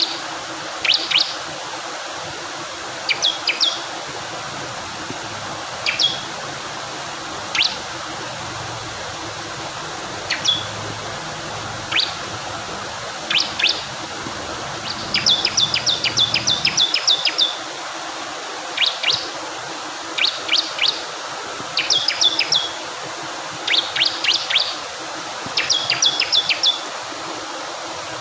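Bar-winged prinia (ciblek kristal) singing over steadily rushing water. It gives sharp, high chips, singly or in twos and threes every second or two, with a quick run of about ten notes a little past the middle.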